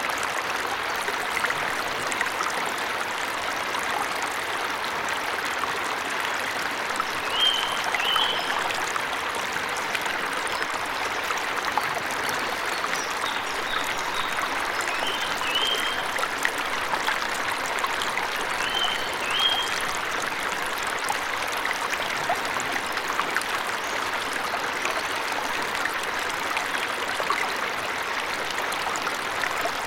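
Steady rushing of a forest waterfall, with a small bird chirping in short pairs of notes three times: about 7 seconds in, at about 15 seconds and at about 19 seconds.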